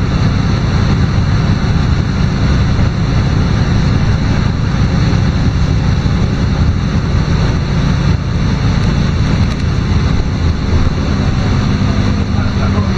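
LiAZ-5292.22 low-floor city bus under way: steady diesel engine drone with tyre and road noise.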